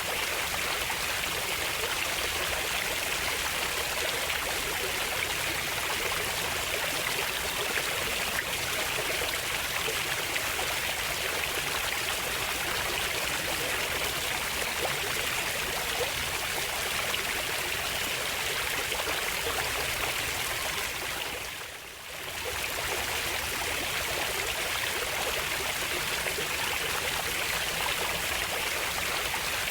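Running water, steady and continuous, dipping briefly and coming back about three-quarters of the way in.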